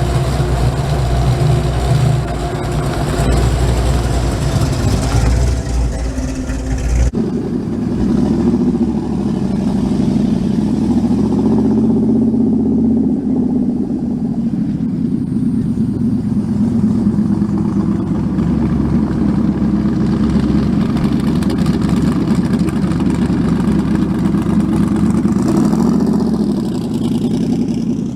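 A car engine running steadily; the sound changes abruptly about seven seconds in to a steadier, higher drone, and the pitch falls away near the end.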